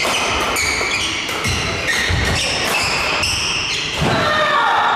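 Badminton doubles rally: rackets striking the shuttlecock again and again, with players' shoes squeaking and scuffing on the court floor.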